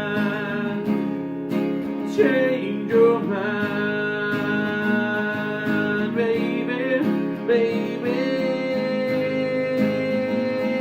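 Acoustic guitar being strummed in a live solo performance of a country-tinged singer-songwriter song, with long held notes ringing over the chords.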